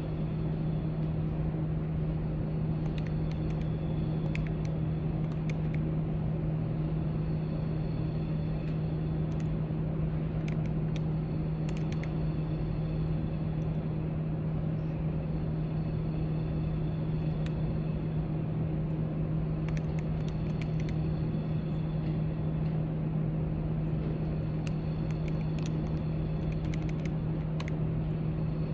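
Library background noise: a steady low hum with scattered faint clicks and taps over it.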